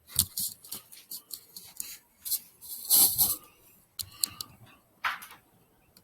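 A string of short clicks and rustles, the kind of handling noise made by moving and shifting things by hand, with the loudest rustling about three seconds in.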